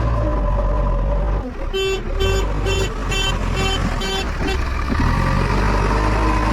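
Diesel engine of a heavy machine running steadily, joined from about two seconds in by a reversing alarm giving about seven short, high, evenly spaced beeps, roughly two a second.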